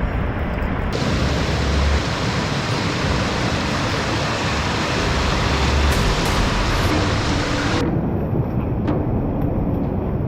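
Loud, steady rush of monsoon-swollen water flowing, with low buffeting on the microphone; the sound shifts abruptly about a second in and again near the end.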